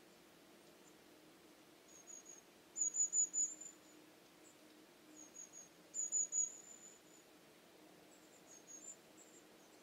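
A small bird chirping in short, rapid high-pitched trills, repeated in phrases about three seconds apart and loudest about three and six seconds in, over a faint steady low hum.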